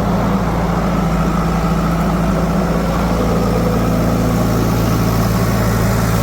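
Heavy vehicle engine idling steadily, a constant low hum with no revving.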